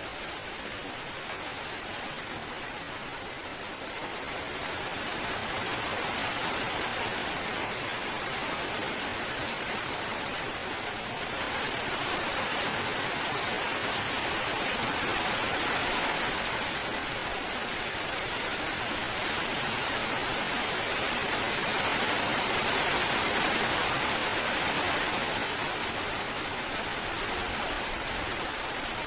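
Steady heavy rain falling, a continuous even hiss that swells slightly a few seconds in and again around the middle.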